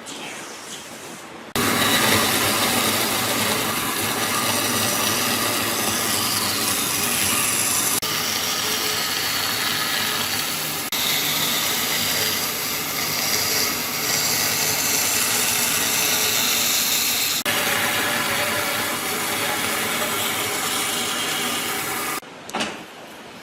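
A power tool running on wood in several spliced takes. It cuts in abruptly about a second and a half in and stops abruptly near the end, with a steady high whine through the middle stretch.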